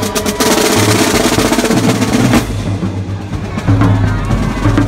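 Marching band drum line playing a street cadence: rapid snare drum strokes and rolls over bass drum beats, with steady low notes underneath.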